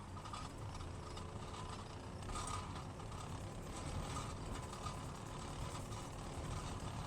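Skid steer running, a steady low engine rumble with rapid mechanical clicking and clattering over it.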